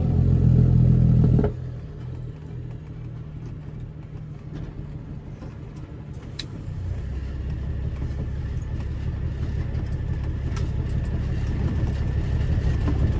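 Kenworth W900B dump truck's straight-piped Cat C13 diesel engine running. It is loud for about the first second and a half, drops off suddenly, then builds back up slowly from about seven seconds in.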